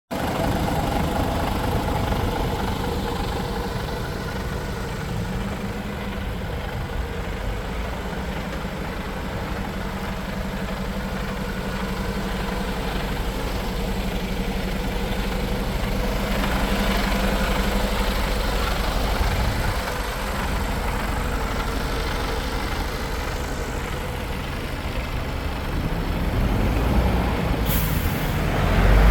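Mercedes-Benz Actros 1843 truck's diesel engine idling steadily, with a brief hiss near the end.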